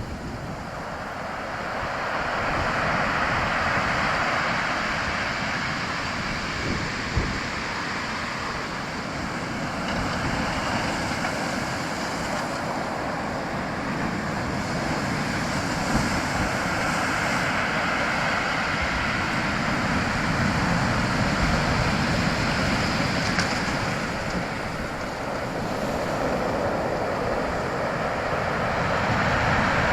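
Rushing water in a steady wash that swells and eases every few seconds, with wind buffeting the microphone.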